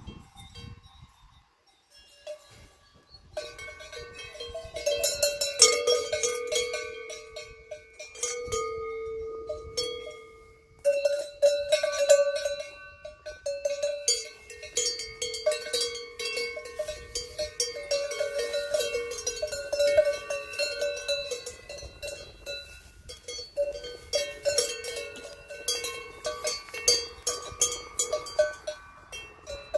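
Cowbells worn by cattle clanking rapidly and irregularly as the animals move, each clang ringing on at a steady pitch. They start a few seconds in and pause briefly twice.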